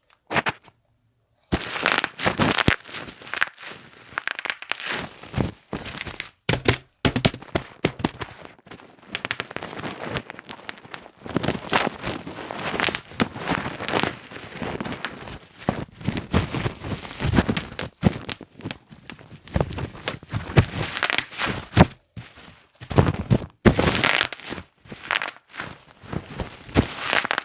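Bubble wrap being squeezed and popped by hand: a dense, irregular run of sharp pops mixed with plastic crinkling, starting about a second and a half in.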